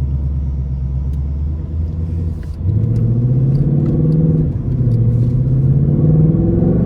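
2024 Ford Mustang GT's 5.0-litre V8 running as the car drives, a low rumble that grows louder about two and a half seconds in, its note rising and dipping gently.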